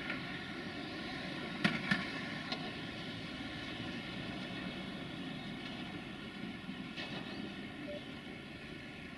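Freight train passing at a distance: the Sulzer diesel engine of a 060-DA (LDE2100) diesel-electric locomotive running with a steady drone, with a couple of sharp clacks of wheels over rail joints about two seconds in and a few lighter ones near the end.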